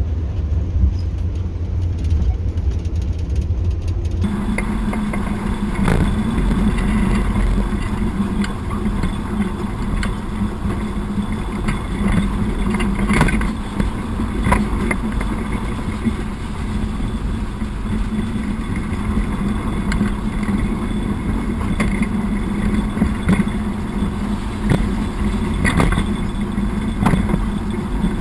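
The YaMZ-236 V6 diesel of a narrow-gauge TU6A locomotive running steadily as the locomotive rolls slowly along the track. Its note changes about four seconds in, and the wheels knock sharply a few times over rail joints.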